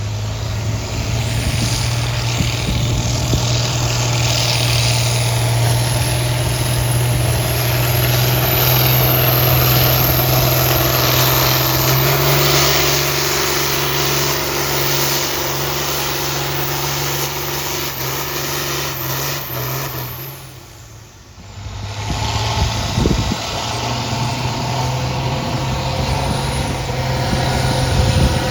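Tractor engine running steadily under load at a tractor pull. Its note shifts about twelve seconds in, the sound drops away briefly about two-thirds of the way through, then the engine runs steadily again.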